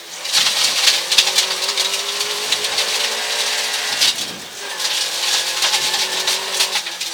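Rally car driving hard on a gravel forest stage, heard inside the cabin: the engine's steady note under a hiss of tyres with loose stones clattering against the underside. The sound eases briefly about four and a half seconds in, then picks up again.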